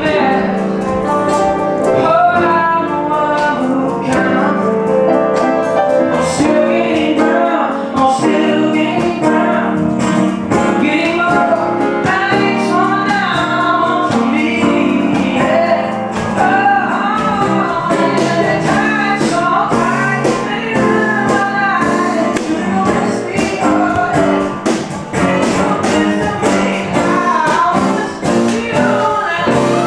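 Live pop song: singing over keyboard and percussion.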